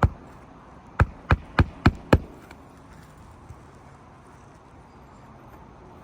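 Hammer driving a roofing nail into an asphalt shingle: one strike at the start, then five quick blows about a third of a second apart beginning about a second in.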